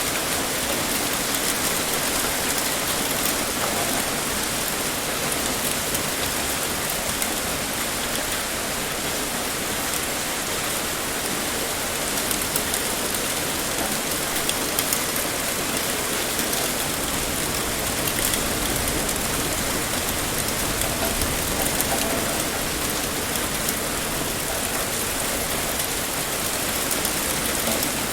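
Heavy rain pouring steadily, a dense even hiss with the patter of countless drops striking a surface.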